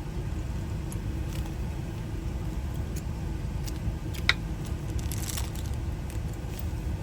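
Steady low rumble of a vehicle engine idling, with a few light clicks and one sharp metallic tick about four seconds in as small lock parts are handled.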